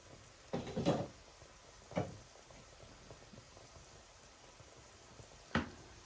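Kitchen items knocking and clattering as they are handled during cooking: a short cluster of clatters about half a second in, a single knock at two seconds and a sharp click near the end, over a faint steady hiss.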